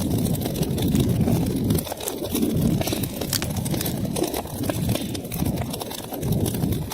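Wood fire in a fireplace crackling, with many quick sharp pops and snaps over a low, wavering rumble of the flames.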